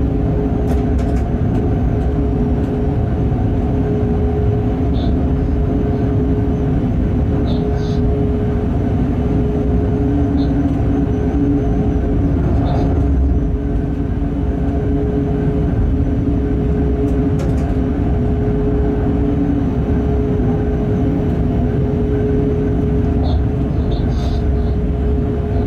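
Cab of a freight train locomotive running at steady speed: constant rumble of wheels on the track with a steady hum, and a few faint light clicks.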